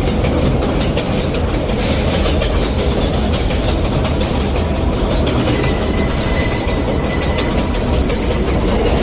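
New York City subway train running between stations, with a steady loud rumble of wheels on rails and some clatter. A faint high whine comes in for a couple of seconds midway.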